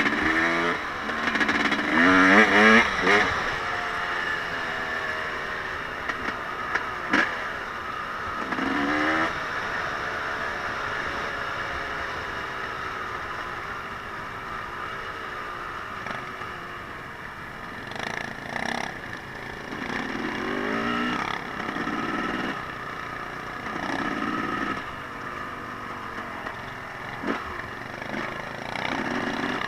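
Off-road vehicle engines, dirt bikes or ATVs, running with a steady drone and being revved again and again, each rev a rising sweep in pitch. The loudest revs come near the start, with a few short knocks in between.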